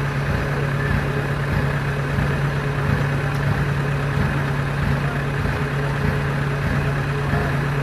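Rice combine harvester's engine running steadily at a constant speed, a deep, even drone with no change in pace.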